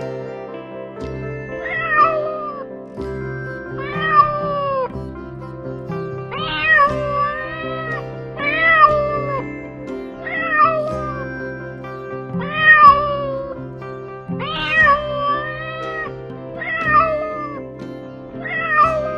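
A domestic cat meowing over and over, nine meows about one every two seconds, each rising and then falling in pitch, over background music of steady held notes.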